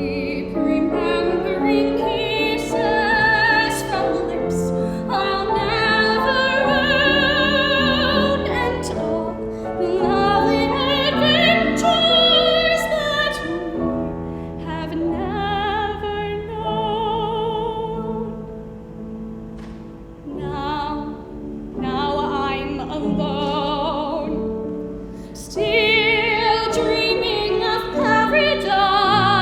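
A solo voice singing a musical theatre ballad in a full, classical style with strong vibrato and long held notes, over piano accompaniment. It drops quieter about twenty seconds in, then swells again near the end.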